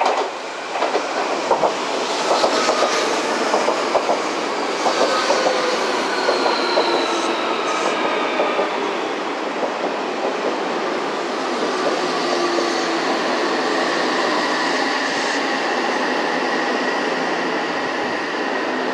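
Odakyu electric train running along the station track, its wheels clacking rapidly over rail joints for the first half, with faint whining tones over it, then settling into a steady rumble.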